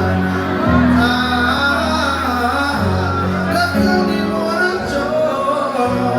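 Live band music with male and female voices singing over held bass notes that change every second or two.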